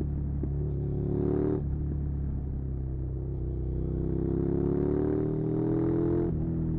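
Suzuki SV650's V-twin engine pulling hard, rising in pitch as it accelerates. The pitch drops sharply about a second and a half in and again near the end, at upshifts between gears.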